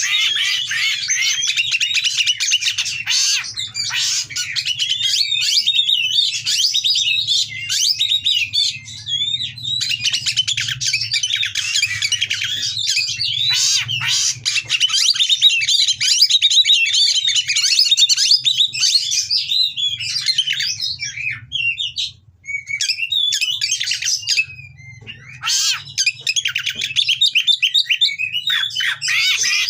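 Oriental magpie-robin song: a fast, continuous stream of harsh chirps and whistled notes, breaking off briefly twice about two-thirds of the way through.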